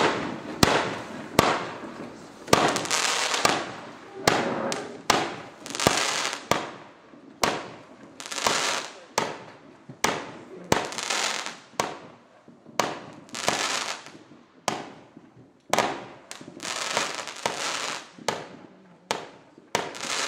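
A Winda 'Happy Planet' 200-gram aerial repeater cake firing shot after shot: a steady string of sharp bangs, a little more than one a second, each with a brief noisy tail.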